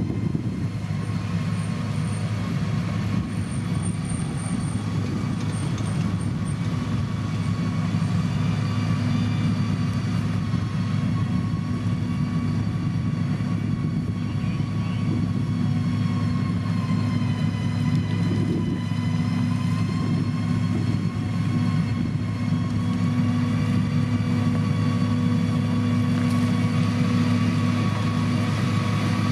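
Diesel engine of heavy road-construction machinery running steadily with a low drone, a high whine holding over it throughout.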